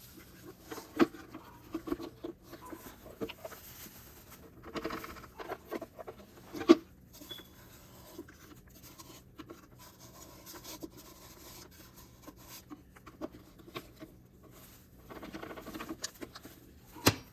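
Scattered rustling and handling noises, with sharp knocks about a second in, near the middle and just before the end.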